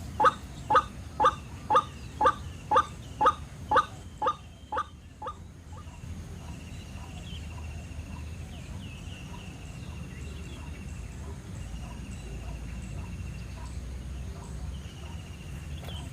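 White-breasted waterhen calling, a loud harsh call repeated about twice a second, slowing, weakening and stopping about five seconds in.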